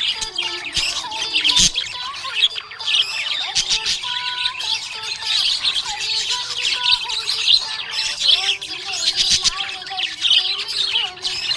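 A group of budgerigars chirping and warbling, with many short, overlapping chirps and the odd squawk running on without a break.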